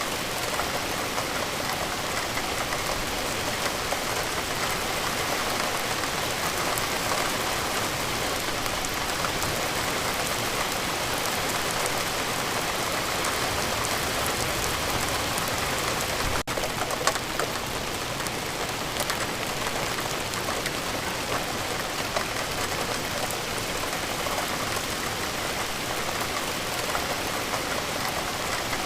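Steady rain falling, with scattered individual drops ticking through the even hiss. The sound breaks off for an instant about halfway through.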